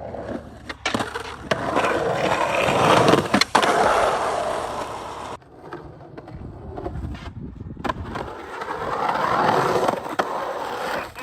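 Skateboard wheels rolling on concrete, swelling and fading as the board carves, with one sharp clack about three and a half seconds in. After an abrupt cut, a second run of wheels rolling builds and fades.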